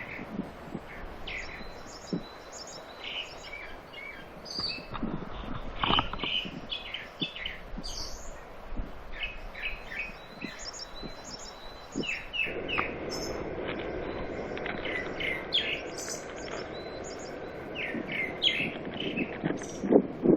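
Small birds chirping and trilling repeatedly in short high phrases. About halfway through, a steady rushing noise joins underneath.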